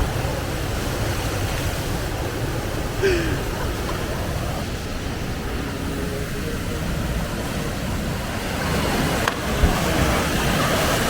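Waterfall rushing steadily, with wind buffeting the microphone. A brief shout about three seconds in, and a sharp knock and thump near the end.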